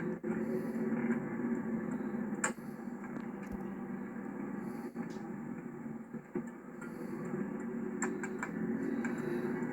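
Cabin noise inside a 1991 Chevrolet Caprice Classic while it is driving: a steady low drone of road and engine, with a few light clicks here and there.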